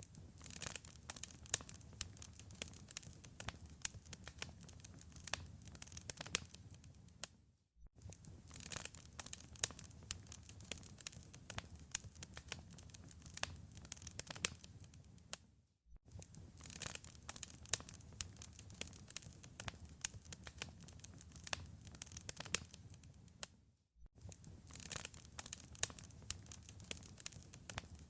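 Wood fire crackling in a fireplace: a dense run of sharp pops and snaps over a low rumble. The sound drops out briefly about every eight seconds.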